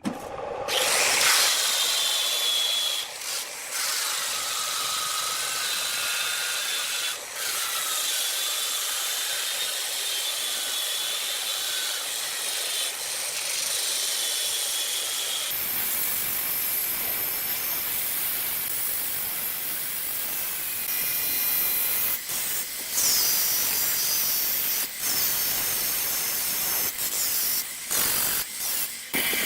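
A turning tool cutting into wood spinning on a lathe: a steady hissing scrape with wavering high-pitched squeals. It breaks off briefly several times.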